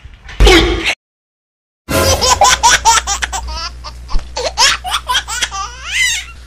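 A young child laughing in a long run of short, quick giggles, starting about two seconds in after a brief loud sound and a silent gap.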